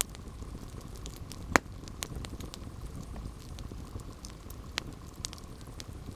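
A campfire burning: a low steady rumble with scattered crackles and snaps of burning wood, and one loud pop about a second and a half in.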